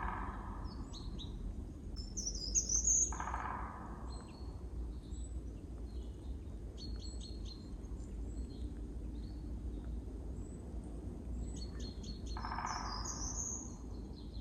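Small birds chirping in short high phrases, in clusters rather than continuously, over a steady low rumble of outdoor ambience. A harsher, lower sound comes twice, about three seconds in and near the end.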